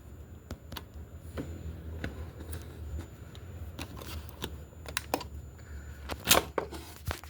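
Scattered light clicks and taps, irregular like typing or handling, with a louder knock about six seconds in, over a faint low hum.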